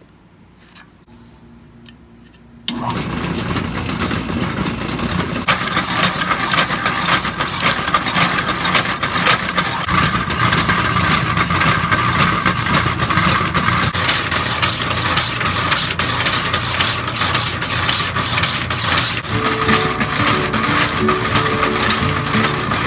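Restored Q&C Co. Shop Saw No.1 power hacksaw started up about three seconds in and running steadily, its drive and sawing mechanism making a dense, rapid clatter. A few steady tones join near the end.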